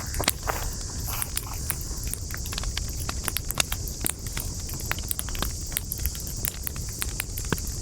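Wood campfire crackling: many sharp pops and snaps at an irregular pace, several a second, over a steady high hiss and a low rumble.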